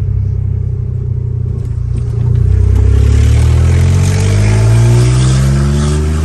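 BMW E46 330Ci's inline-six engine under way, running steadily at first, then accelerating with its pitch rising from about two seconds in.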